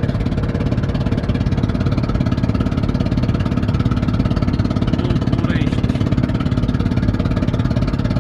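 Ford car engine running with a cracked spark plug, firing on three cylinders, a steady, rapidly pulsing engine sound.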